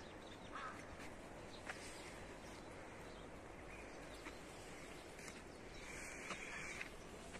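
A few faint, short bird calls over a steady hiss.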